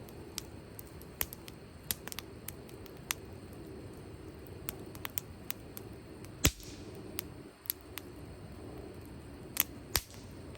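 Wood campfire crackling, with irregular sharp pops over a steady low hiss; the loudest pops come about six and a half seconds in and near the end.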